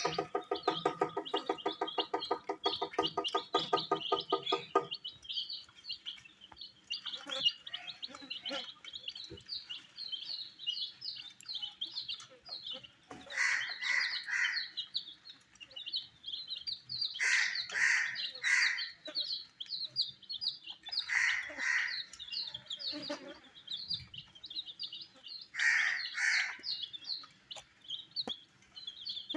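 Baby chicks chirping continuously in rapid high-pitched peeps, with louder bursts of calls four times. Background music plays over the first five seconds, then stops.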